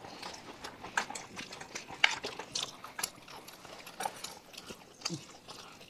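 Eating sounds: irregular small wet clicks and smacks of chewing and of food being picked up by hand, with a short low hum of a voice about five seconds in.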